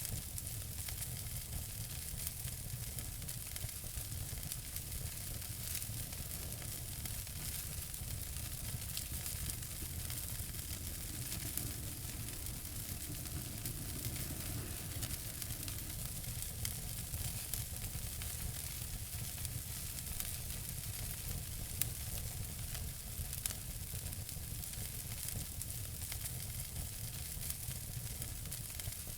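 Wood fire in a fireplace burning steadily, with a constant hiss and many small crackles and pops, one pop a little louder about three quarters of the way through.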